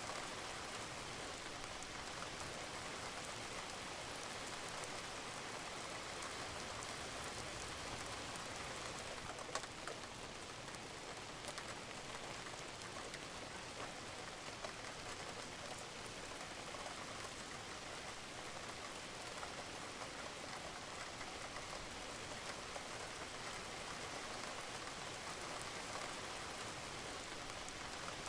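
Steady rain falling on a roof, an even patter with occasional louder drops.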